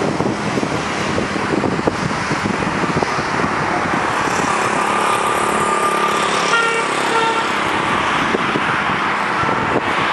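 Steady motor vehicle and road noise, with a short horn-like tone about six and a half seconds in.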